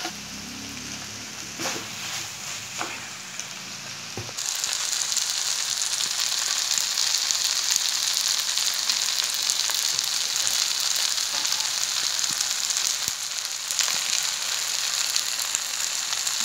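Rice stir-frying in a wok: a steady sizzle, with a wooden spatula scraping and tapping against the pan a few times. The sizzle becomes abruptly louder about four seconds in.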